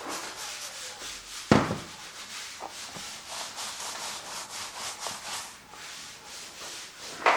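Paintbrush scrubbing acrylic paint across a canvas in repeated scratchy strokes. A sharp knock about a second and a half in and another near the end.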